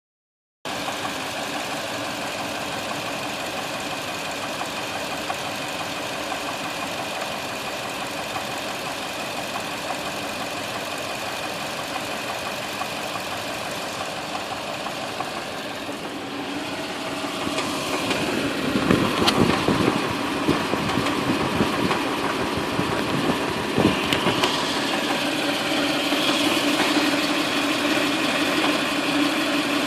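Toyota 2UZ-FE 4.7-litre V8 engine running with a strange knocking sound. It grows louder about halfway through, with a few sharper knocks.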